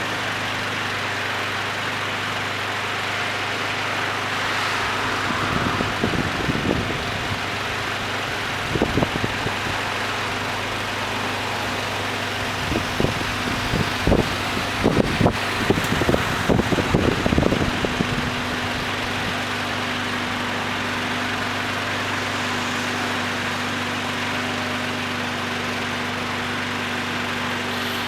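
Heavy diesel truck engine running at a slow, steady idle. An irregular run of low thuds and knocks comes between about 5 and 18 seconds in.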